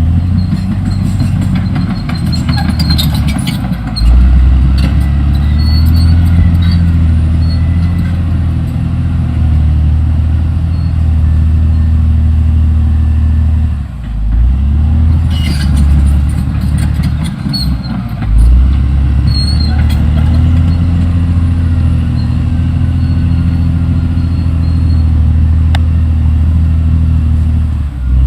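Caterpillar D6R XL bulldozer's diesel engine running hard under load, its note dipping and picking back up several times, with high squeaks and metallic clanks over it.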